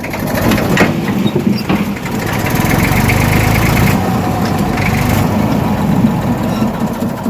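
Massey Ferguson tractor's diesel engine running, growing louder about two seconds in and easing off again after about five seconds.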